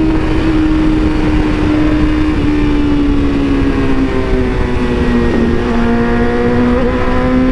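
BMW S1000RR inline-four engine running at steady revs, its pitch sagging slowly for about five seconds and then climbing a little, under a heavy rush of wind noise.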